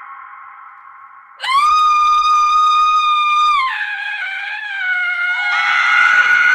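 Women screaming: a fading high scream, then a sudden loud, shrill held scream about a second and a half in that drops lower and wavers after about two seconds, with another scream starting near the end.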